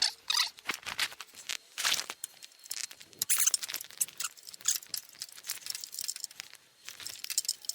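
A spanner with an improvised extension worked on a nut deep in the engine bay: irregular small metal clicks, scrapes and rattles of tool on nut and steel.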